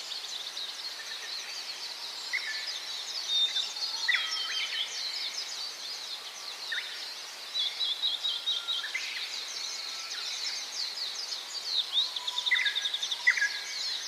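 Many small birds chirping and twittering without pause, with a lower whistled note breaking through every few seconds.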